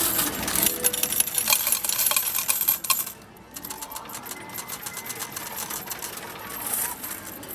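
Rapid clatter of metal arcade medals fired in quick succession into a medal-pusher game, cutting off suddenly about three seconds in, with music underneath.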